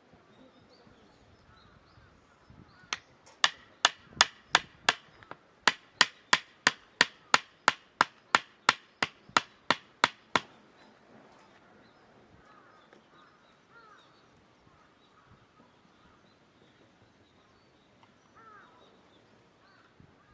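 Wood being chopped: about twenty quick, sharp strikes at roughly three a second, with one short break, then they stop.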